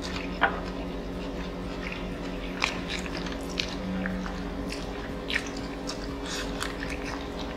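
Close-up eating sounds: chewing, with irregular wet smacks and clicks of mouths and chopsticks, over a steady low hum.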